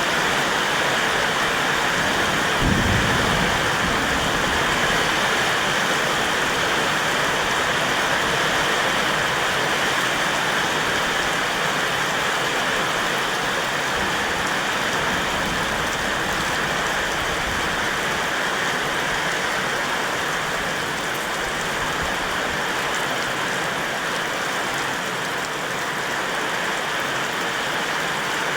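Heavy rain pouring down steadily, with a brief low rumble about three seconds in.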